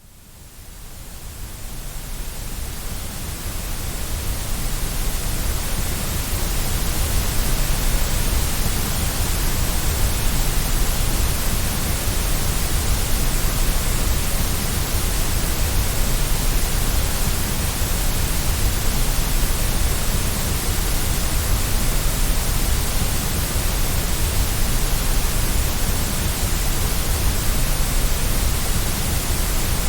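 Generated white noise for baby sleep: an even, steady hiss with a low rumble underneath, fading in over the first few seconds.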